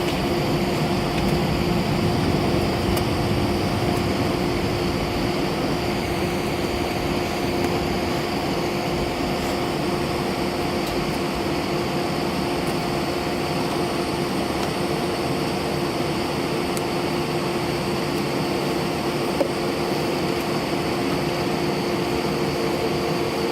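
Steady cabin hum of an Airbus A319 on the ground before takeoff: jet engines at idle and the air-conditioning airflow, with a constant low drone and a faint high whine.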